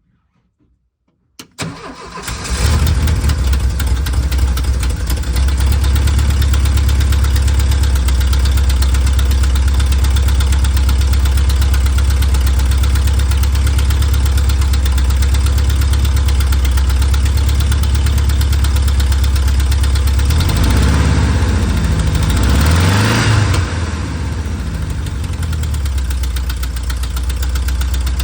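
Volkswagen Vanagon's flat-four engine cranking briefly and catching, then running steadily at idle. About twenty seconds in it is revved up and down a few times, then it settles back to idle and dies away at the very end.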